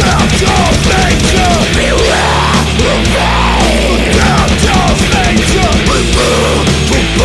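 Death/thrash metal recording: distorted guitars, bass and fast, dense drumming, with gliding high-pitched lines over it.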